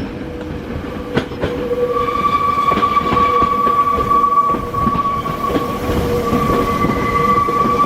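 Meitetsu electric train running over the tracks, with rumble and knocks from the wheels over rail joints. About two seconds in, a steady high-pitched squeal sets in and holds.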